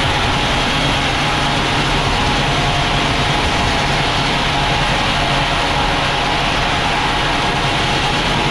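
Sawmill machinery running steadily: a low engine hum under an even rushing noise, with no change in pitch or loudness.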